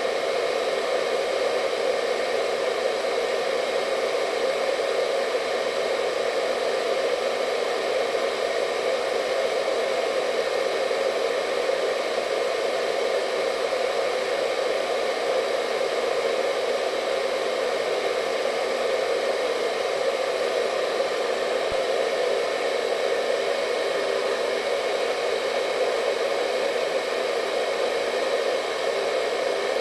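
Hair dryer running continuously, a steady rushing whir with a faint constant whine above it.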